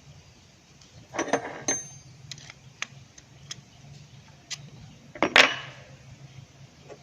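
Irregular clicks and clinks of small metal parts and tools being handled, some with a brief metallic ring, with a louder knock about five seconds in, over a faint steady hum.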